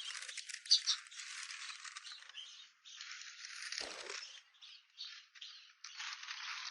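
Loose bedding material being poured and spread into a small pet enclosure: a dry rattling hiss in stretches with short gaps.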